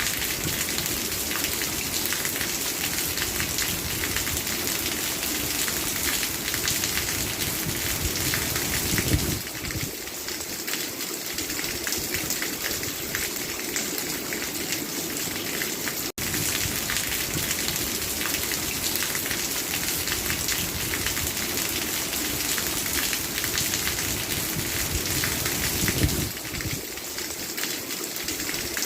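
Steady rain falling, a dense even patter of drops, with a momentary break about 16 seconds in.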